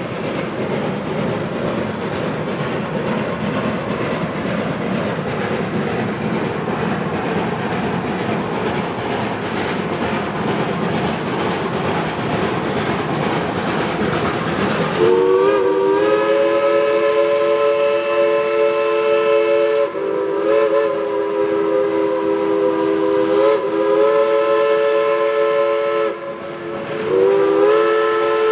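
Climax geared steam locomotive working past with its train, a steady rush of exhaust and running noise, then about halfway through its multi-note steam whistle sounds in long blasts, with a short break shortly before the end.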